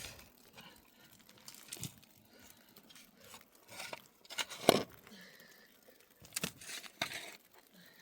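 Intermittent crinkling and rustling with a few sharp clicks, loudest about four and a half seconds in, as of something being handled.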